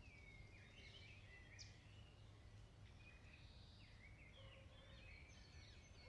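Faint birdsong: several birds chirping and singing short falling and rising phrases, over a low steady background rumble.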